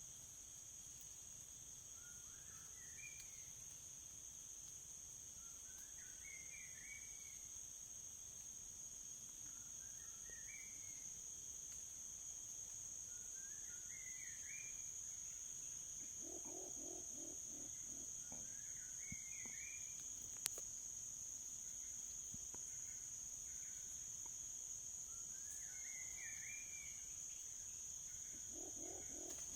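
Insects keep up a steady high-pitched drone. A short rising-and-falling chirp repeats about every four seconds, and twice a lower call of about a second is heard: animal calls in the open, the nearer of them likely birds.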